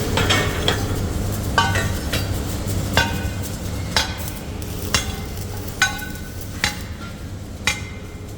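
Sharp metal-on-metal strikes, each ringing briefly, about once a second, over a steady low hum.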